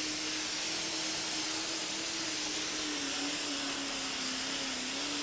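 Competition pulling tractor's engine running at full throttle, a steady loud rush with a steady whine that wavers only slightly.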